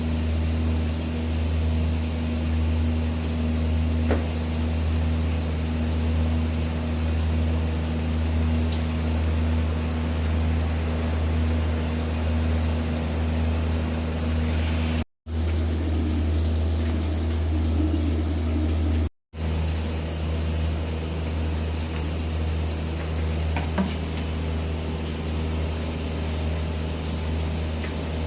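Shower water spraying steadily, a constant hiss with a low hum beneath it, cut off twice for a split second.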